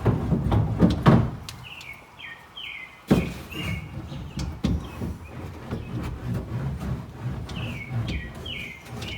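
Sound-deadening mat being rubbed and pressed down onto car sheet metal with a hand tool, with knocks in the first second and a sharp knock about three seconds in. A small bird chirps in two quick series of short, falling chirps.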